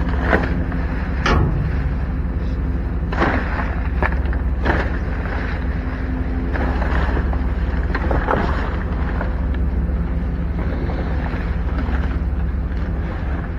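Steady low machine hum, like an idling engine or a large fan unit, with a few short knocks and rustles scattered through it.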